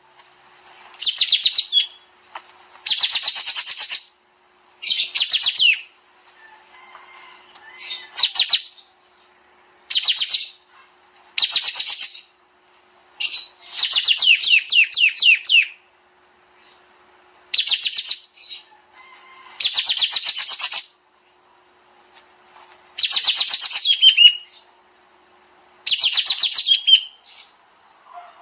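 Kapas tembak songbird singing its dense, rapid-fire 'nembak' song. It gives short bursts of fast, high trilled notes, each under about a second long, repeated every one to two seconds.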